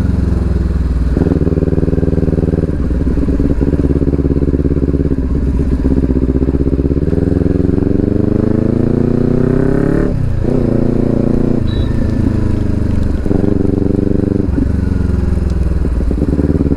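Kawasaki Ninja 400's 399cc parallel-twin engine, loud through an Akrapovic exhaust with its dB killer removed, as the bike is ridden. The revs rise and fall several times, with a long climb that ends in a sudden drop about ten seconds in.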